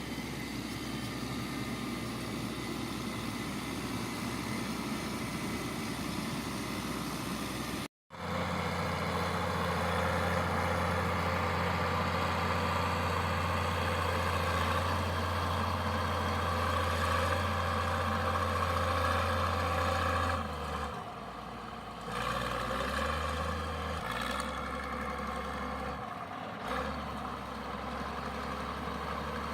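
Engine of a piece of construction machinery running steadily. The sound cuts out briefly about eight seconds in, then returns as a deeper, louder hum that changes step a few times.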